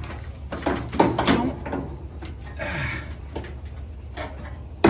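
Dryer heating element and sheet-metal parts being handled into place: scattered metal clicks and knocks, a short scrape about halfway through, and a sharp click near the end, over a steady low hum.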